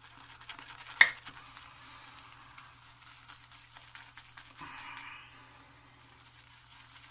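Badger shaving brush whisking lather in a shave bowl, a soft wet swishing, with one sharp knock about a second in and a short louder swish near five seconds.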